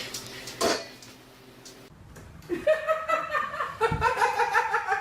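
A person laughing in a run of quick repeated bursts, starting about halfway through, after a brief sharp sound near the start.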